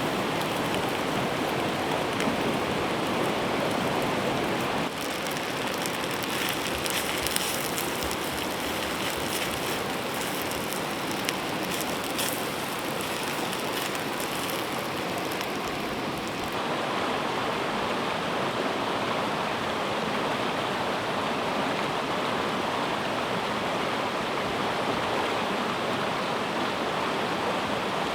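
River water rushing steadily, with the sound changing character abruptly about 5 seconds in and again past the halfway point. Light scattered ticks sit over it in the first half.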